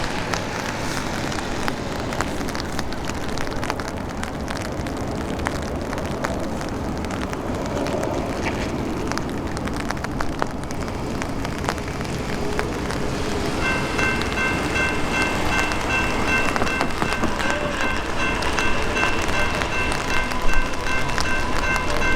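Steady outdoor rushing and rumbling noise. About two-thirds of the way in, a grade-crossing warning bell starts ringing with a rapid, even, high-pitched ding, the crossing signals activating for the approaching train.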